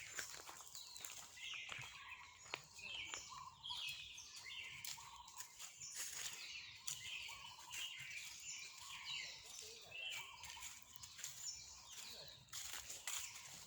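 Birds chirping: many short, high calls repeating and overlapping, with a few lower calls among them.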